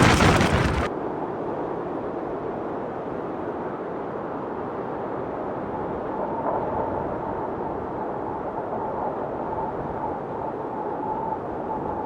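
Strong wind: heavy buffeting on the microphone for the first second cuts off abruptly, then a steady rushing wind with a faint high whistle that comes and goes in the second half.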